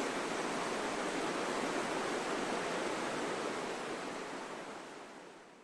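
Steady rushing noise that fades out over the last two seconds.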